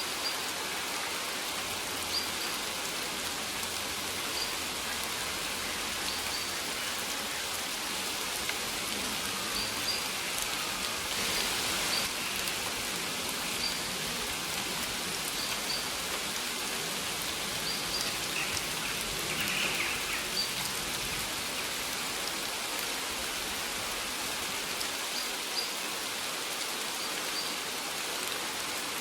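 Steady rain falling, an even hiss of drops. Short high chirps sound every couple of seconds over the rain, with a brief burst of higher chirping a little past the middle.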